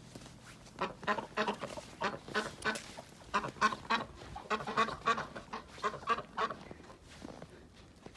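A bird giving a rapid run of short, pitched calls, several a second, easing off near the end.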